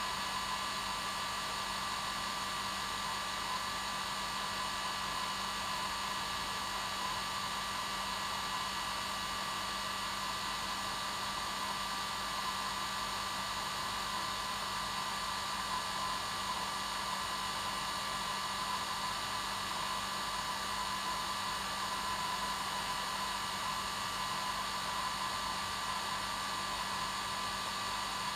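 Hair dryer running steadily: an even blowing whoosh with a constant motor hum, with no change in speed.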